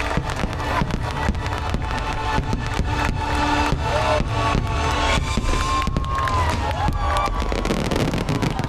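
Fireworks bursting in a rapid, dense finale over the show's music, with crowd voices and cheering rising near the end.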